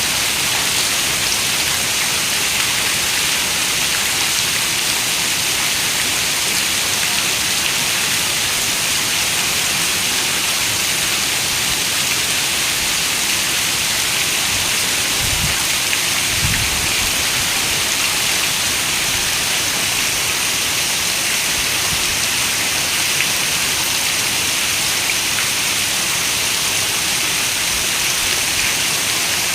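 Heavy rain beating on a window glass as a steady, even hiss. About halfway through there are two brief low rumbles of thunder.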